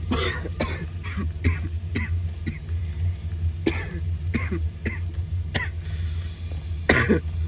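A man coughing again and again, short sharp coughs with uneven gaps, from cooking smoke filling the truck cab. A steady low hum runs underneath.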